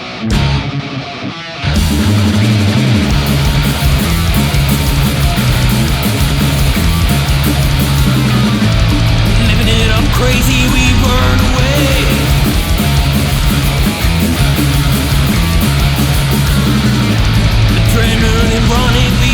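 Heavy metal song: a brief, sparser electric guitar passage, then about two seconds in the full band comes in loud with distorted electric guitars, bass and drums.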